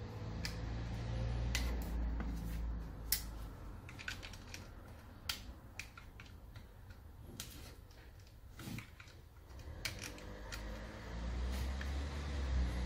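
Scattered small clicks and taps of tools and metal parts being handled while an angle grinder is taken apart, over a low hum.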